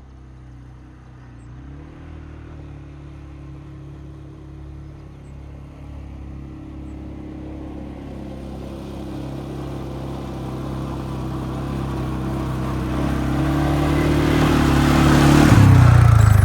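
Quad bike engine running and growing steadily louder, then its pitch drops sharply near the end.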